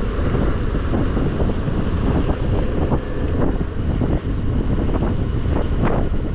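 Wind buffeting a helmet-mounted microphone on a moving scooter, a steady rumbling rush with the scooter's running noise underneath.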